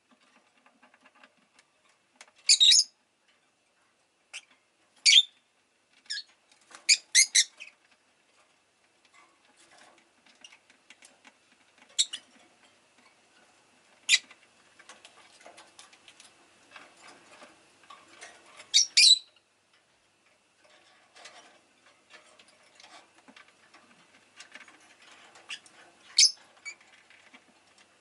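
Rosy-faced lovebird giving short, sharp, high chirps every few seconds, some in quick runs of two or three, with faint scratching and tapping in between.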